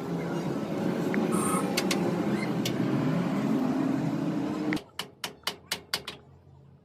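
A workshop machine running loudly and steadily, cutting off abruptly near the end, followed by a quick series of six sharp clicks.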